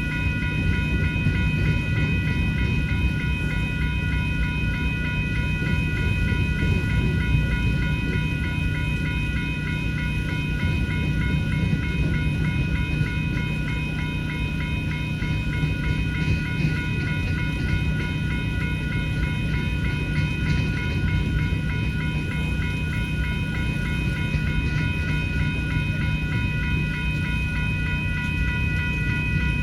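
Freight train cars rolling through a railroad grade crossing with a steady low rumble, while the crossing bell rings in a fast, even rhythm. A generator hums steadily underneath.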